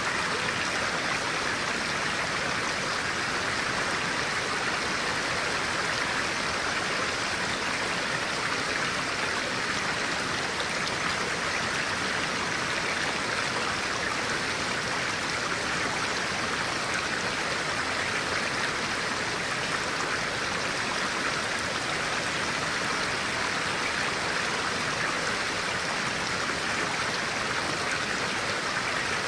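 Clear-water stream flowing: a steady, even rush of running water.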